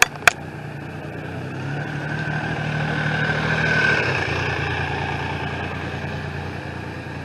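Tram running, with a steady whine over a low hum that grows louder to a peak about four seconds in and then eases off. Two sharp clicks come right at the start.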